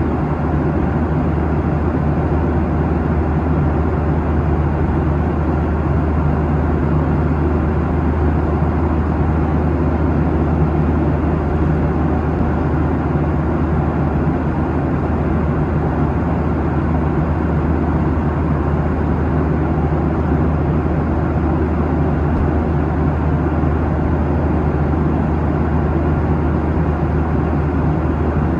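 Cabin noise of a Boeing 737-800 at cruise: a steady drone of airflow and CFM56-7B engines, with a strong low hum under an even rush.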